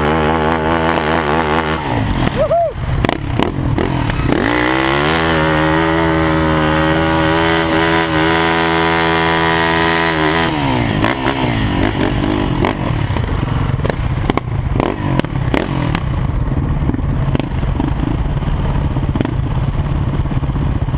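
Supermoto motorcycle engines revving unevenly, then one engine held at high, steady revs for about six seconds before dropping back to a rough, uneven idle.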